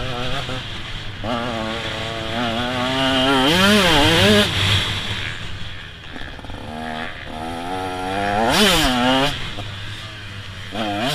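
125 cc two-stroke motocross bike (KTM 125 SX) engine being ridden hard, its high, buzzy note climbing and dropping twice as the rider opens and closes the throttle, then rising again near the end.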